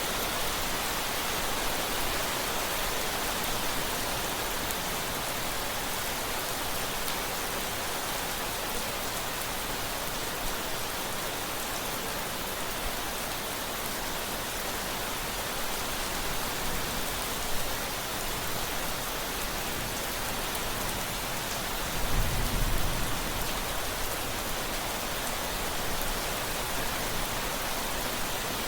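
Steady rain falling in an even hiss. About two-thirds of the way through comes a brief low rumble of thunder.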